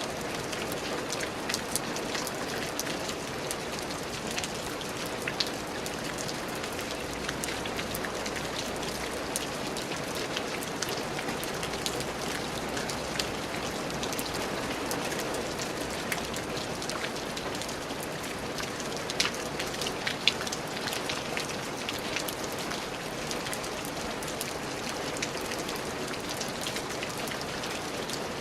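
Steady rain falling on a surface, an even patter of many small drop impacts, with a few louder single drops around the middle.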